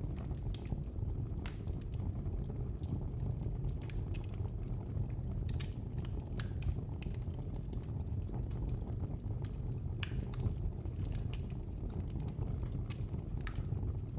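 Wood fire burning in a fireplace: a steady low rumble of the flames with irregular sharp crackles and pops, one or two a second.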